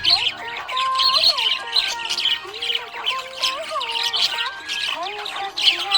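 Budgerigar warbling and chirping in a rapid, continuous chatter, over a background melody.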